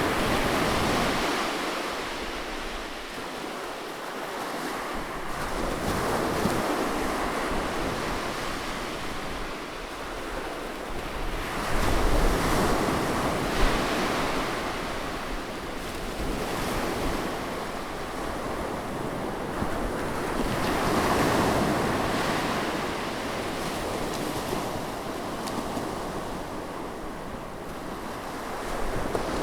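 Ocean surf: waves breaking and washing up the beach, swelling and fading every six to eight seconds, with wind rumbling on the microphone.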